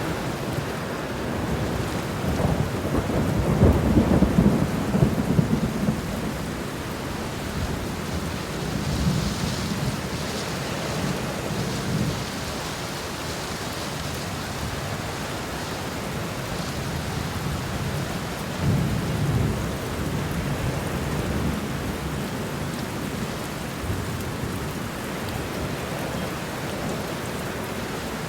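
Steady rain falling, with low rolls of thunder swelling up several times, the strongest a few seconds in.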